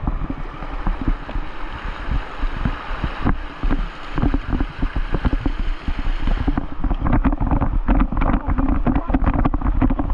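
Rushing whitewater with wind buffeting the camera microphone, and frequent splashes and knocks. About two-thirds of the way in, the sound loses its hiss and becomes duller.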